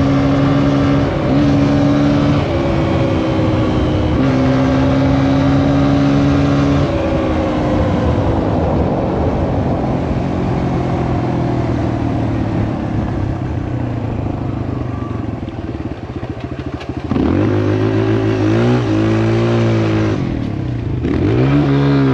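Kawasaki KLX140L dirt bike's single-cylinder four-stroke engine running at steady throttle. About seven seconds in it drops off to a lower, quieter run. Near the end it picks up suddenly and revs up and down in quick throttle blips.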